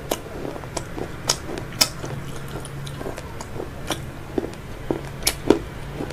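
Close-miked chewing of crispy fried food: irregular sharp crunches and mouth clicks, a dozen or so, over a low steady hum.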